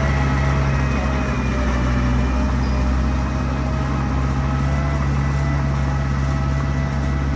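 Heavy diesel engine of earthmoving machinery running steadily at a constant speed, a deep low drone with a faint whine above it.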